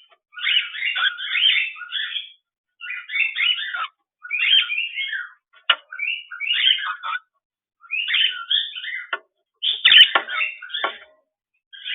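Pet bird chattering in quick, warbling phrases a second or two long, with short pauses between them and a couple of sharp clicks, the loudest near the end.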